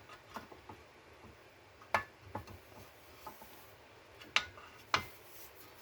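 Sheet steel repair pieces handled and positioned against each other: a few light metal clicks and taps, the sharpest about two seconds in and twice more near the end.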